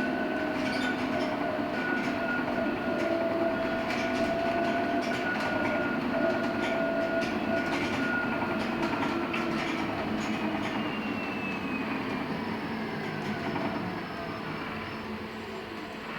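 LiAZ-6274 electric bus heard from inside the cabin: its electric traction drive whines steadily over road and tyre noise. About ten seconds in, the whine starts to fall in pitch and the running noise grows quieter as the bus slows.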